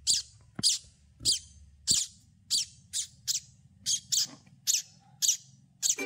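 Nestling birds giving short, high-pitched begging cheeps, about two a second, as they gape for food.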